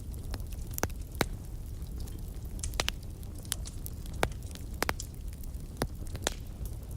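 Wood fire in a fireplace crackling: sharp pops at irregular moments, about one a second, over a steady low rumble of the flames.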